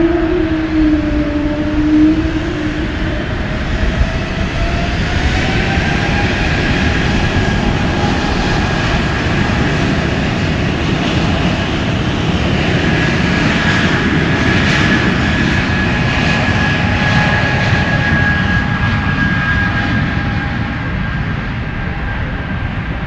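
Airliner engines passing close, a loud, steady rush with a high whine that rises in pitch about five seconds in and is strongest in the middle before easing off near the end.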